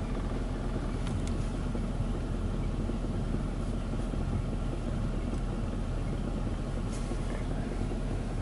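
Ryko Softgloss Maxx rollover car wash running with its brushes on: a steady low machine noise without breaks.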